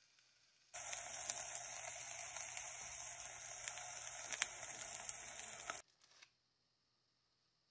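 Beef burger patty sizzling in a cast iron skillet under a metal melting dome: a steady hiss with scattered crackles that starts abruptly about a second in and cuts off suddenly about five seconds later.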